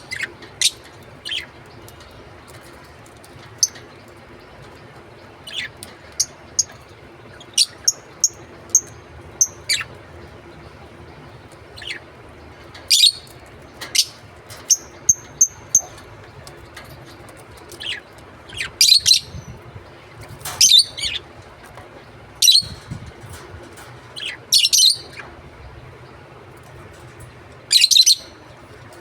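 Pet lovebirds chirping: short, sharp, high-pitched calls at irregular intervals, some as brief whistled notes, with louder bursts of calling in the second half.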